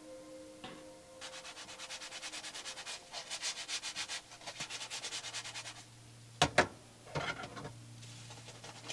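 A cooking utensil scraping quickly and rhythmically, about five or six strokes a second, then two sharp knocks, then a few more scraping strokes.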